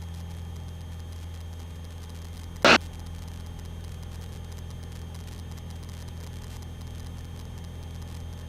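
Steady low drone and static of the aircraft in flight, heard through the cockpit intercom recording, with one short sharp click about two and a half seconds in.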